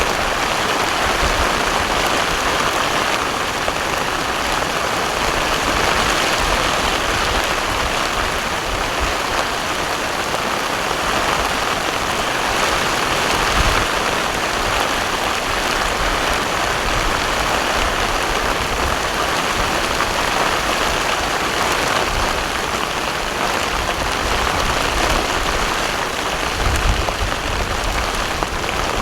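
Heavy rain falling steadily on water and boats, a dense even hiss. A low rumble comes and goes underneath and is strongest near the end.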